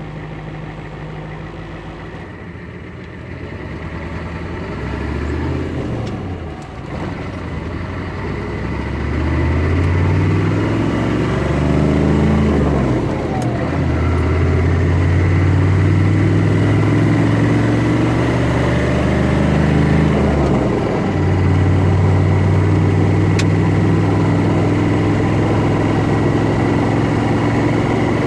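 Turbocharged car engine running, its revs climbing and dropping several times before holding fairly steady, with a faint steady high whine in the second half. The owner suspects a bad turbo.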